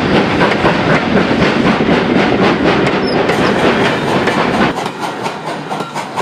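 Steam-hauled heritage train passing close by, its carriage wheels clattering rhythmically over the rail joints. The sound drops away sharply near the end.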